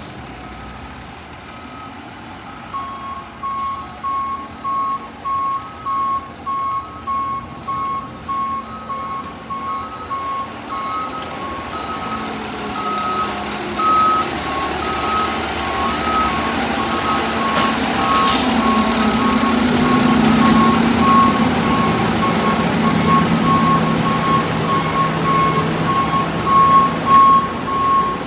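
A fire engine backing up, its reverse alarm beeping steadily about one and a half times a second while the engine rumble grows louder. There is a short, sharp hiss of air about two-thirds of the way through.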